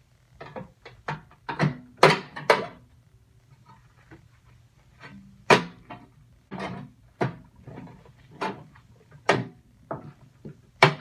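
Irregular knocks and clanks from hands and tools working on a gutted microwave's sheet-metal chassis while its bottom motor is being removed, about a dozen sharp hits, a few of them louder.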